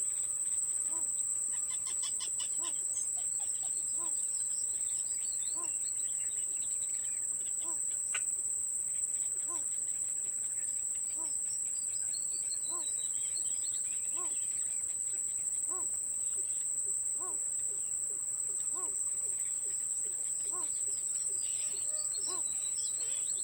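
A steady, high-pitched insect drone, like crickets, with scattered bird chirps. A short low call repeats about every second and a half.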